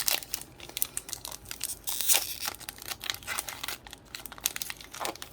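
Foil Pokémon booster pack wrapper crinkling in quick, irregular crackles as it is handled and torn open.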